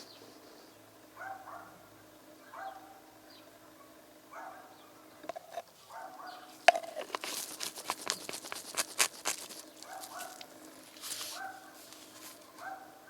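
Short pitched animal calls repeating about once every second and a half, with a rapid run of sharp clicks and knocks through the middle that is the loudest part.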